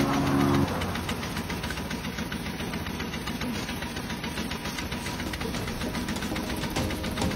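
An engine running steadily with a fast, even knock.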